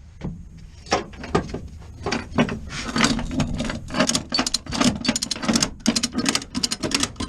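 Ratchet tie-down straps being cranked tight on a side-by-side's wheels, a quick irregular run of sharp metallic clicks and rasps.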